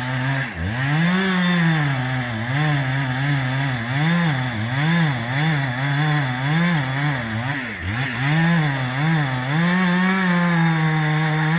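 Two-stroke chainsaw running at full throttle while cutting into a large maple trunk. Its pitch sags and recovers over and over, about twice a second in the middle stretch, as the chain loads up in the cut.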